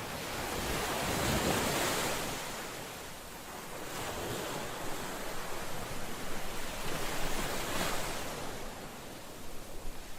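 Ocean waves washing onto a shore, the surf swelling and falling back in about three surges, roughly one every three seconds.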